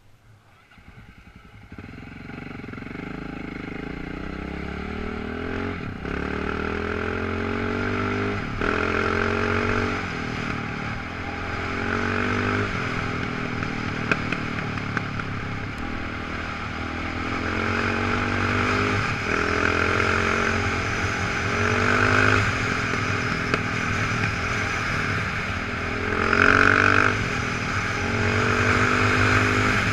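Off-road motorcycle engine running under throttle, its pitch repeatedly climbing and then dropping back every few seconds as the bike accelerates and shifts gears. The engine sound comes up out of near silence in the first second or two.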